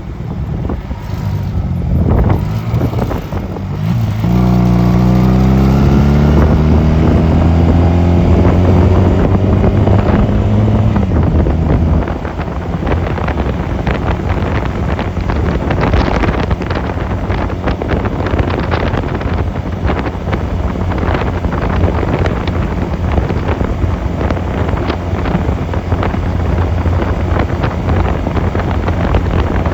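Honda 250cc motorcycle engine pulling hard, its pitch climbing steadily for several seconds, then easing off about twelve seconds in. After that, wind rushing and buffeting on the microphone dominates over the running engine.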